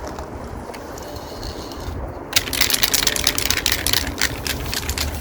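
A rapid, dense rattle of clicks starting a little past two seconds in and lasting about two and a half seconds, over a low rumble.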